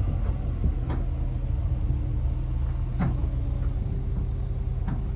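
A vehicle engine running steadily with a low rumble, with a few faint knocks over it.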